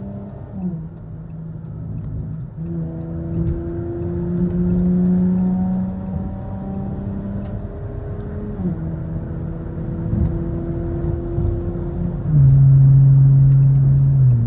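Car engine heard from inside the moving car, holding a steady note with a few downward steps in pitch as the gears change. After the last step, about two seconds from the end, it runs louder.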